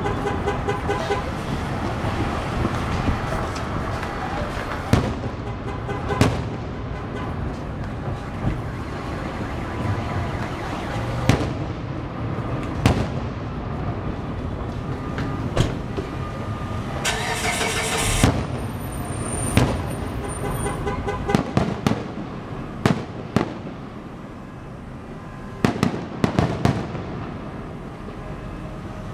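Fireworks shells bursting overhead as sharp booms every second or few, including a second-long hissing rush about two-thirds of the way through. Underneath runs a steady alarm-like wail from car alarms in the parking structure, set off by the loud bursts.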